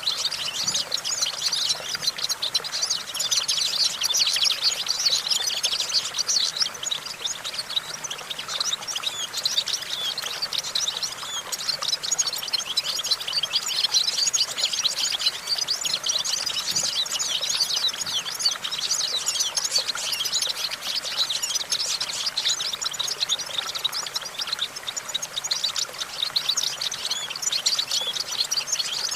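European goldfinch singing a fast, continuous twittering song of quick chirps and trills with no pauses.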